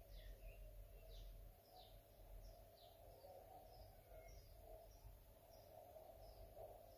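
Near silence: faint room tone with a bird's short, high chirps, some falling in pitch, repeated irregularly a few times a second.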